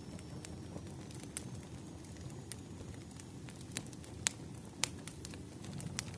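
Campfire burning: a steady low rumble with irregular sharp crackles and pops, the loudest a little past four seconds and just before five seconds in.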